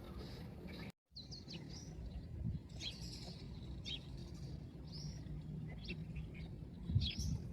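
Birds chirping: many short, high chirps, several a second, over a low steady background rumble. The sound cuts out completely for an instant about a second in.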